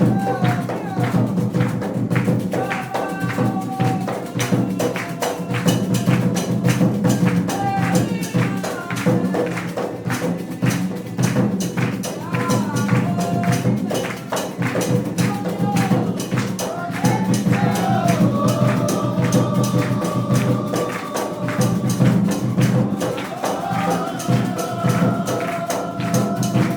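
Candomblé ritual music: hand drums and fast, dense rattling percussion in a steady rhythm, with voices singing a chant over it.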